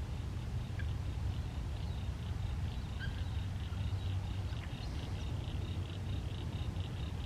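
Outdoor ambience: scattered faint bird chirps over a steady, rapidly pulsing high trill and a constant low rumble.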